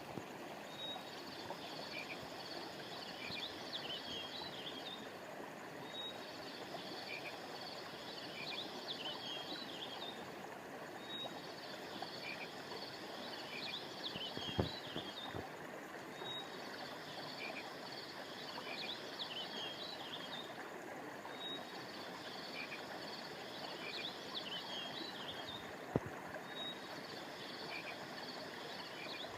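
Flowing river water as a steady rush under frogs calling in high-pitched bursts, one about every five seconds. A sharp click comes about halfway through and another near the end.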